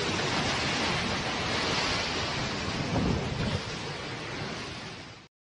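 Loud, steady rushing noise of wind and water buffeting the microphone, with a low rumble swelling about three seconds in, cutting off abruptly near the end.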